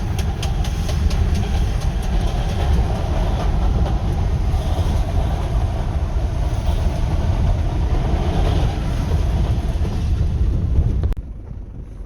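Pit bike running under way, a dense low rumble with rattling and clicks over it. It cuts off abruptly about eleven seconds in.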